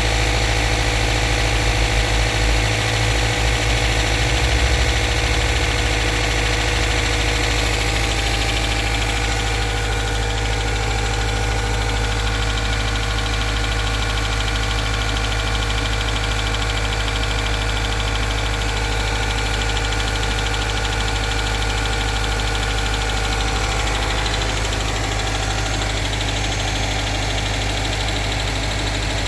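Subaru FB16DIT 1.6-litre turbocharged flat-four engine running at a steady idle, with the knock (стук) that the owner is recording.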